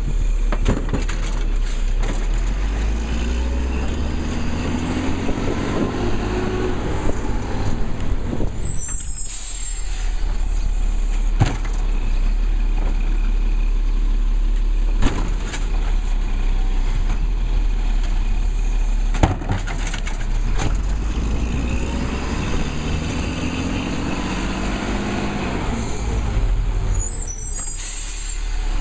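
Labrie Cool Hand garbage truck running, with two long cycles of rising and falling hydraulic whine about twenty seconds apart over the steady engine, and a few sharp knocks in between.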